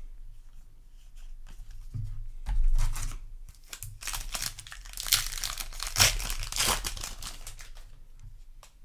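A Magic: The Gathering Final Fantasy play booster pack's foil wrapper being torn open and crinkled by hand: scattered rustles at first, then a run of rips and crinkles, loudest in the second half.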